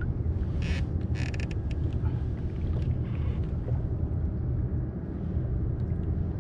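Short creaking, ratcheting bursts from a fishing reel worked under load while fighting a sturgeon, about one and a half seconds in, over a steady low rumble.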